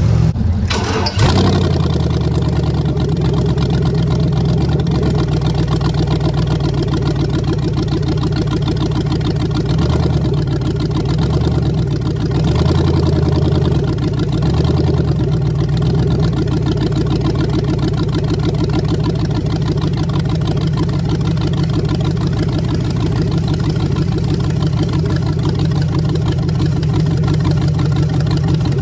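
LS V8 engine of a drag altered idling loud and steady, its pitch holding level.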